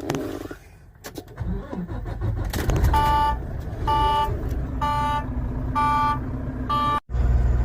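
A vehicle engine starts and runs with a low rumble. Over it a dashboard warning chime sounds five times, about once a second. A few clicks come before the engine catches, and near the end the sound cuts abruptly to a louder, steady engine rumble.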